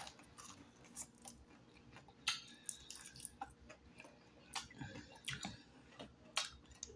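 Close-up chewing of crispy deep-fried turtle meat, with irregular sharp crunches and mouth clicks.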